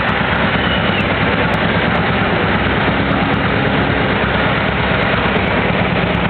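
Antique tractor's engine running loud and steady.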